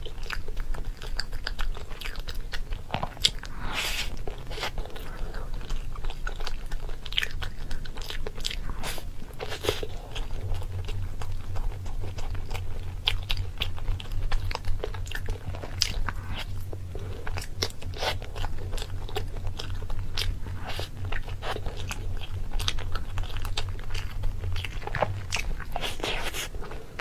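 A person biting and chewing crunchy food close to the microphone: a dense, irregular run of sharp crunches.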